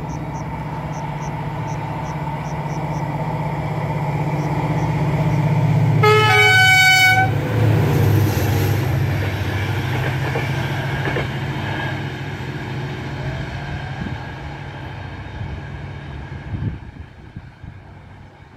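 Passenger train hauled by an electric locomotive approaching and passing at speed, its rumble building for about six seconds and then fading. About six seconds in, the driver sounds the locomotive horn once as a greeting: a chord of about a second, the loudest moment.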